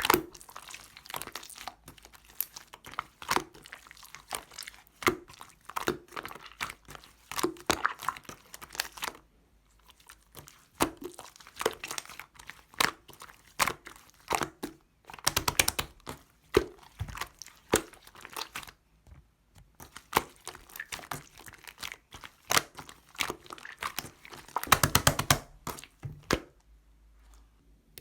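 Clear slime being squeezed and pressed by hand, making dense crackling and clicking as the air pockets pop. It comes in bursts with short pauses, and has fast runs of clicks about halfway through and again near the end.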